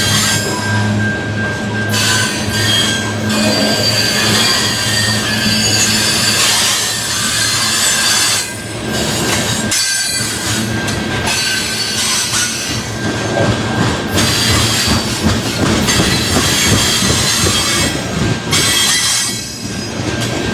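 Train rolling past with its wheels squealing against the rails. A low steady hum runs under it for the first couple of seconds.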